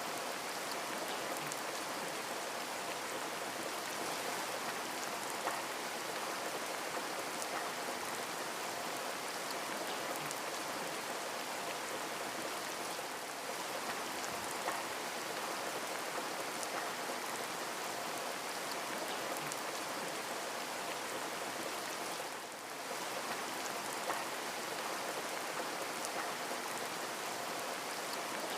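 Heavy rain falling steadily, an even hiss with a few sharper drops ticking through it, dipping briefly once late on.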